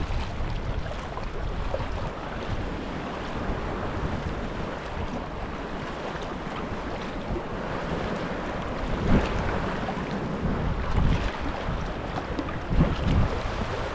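Wind buffeting the microphone over the wash and lap of sea water around a sea kayak under paddle, with a few louder buffets in the second half.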